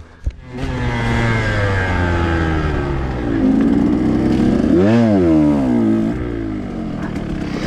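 2021 KTM 125 XC two-stroke dirt bike engine under way. It comes in about half a second in and its pitch sinks as the bike slows. About five seconds in there is a quick rev up and back down, and then it settles to a steady lower run.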